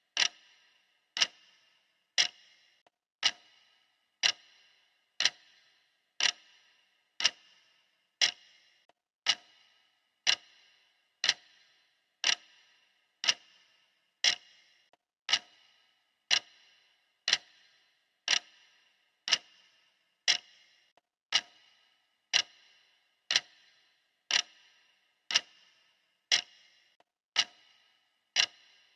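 Clock ticking steadily, one sharp tick a second, each with a brief ringing decay.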